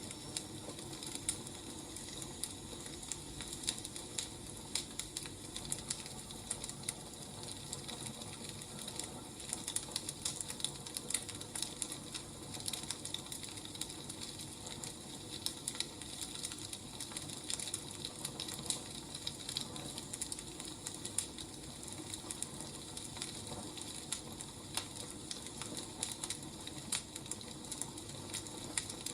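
Firewood fire crackling: many irregular small snaps and pops over a faint steady hiss.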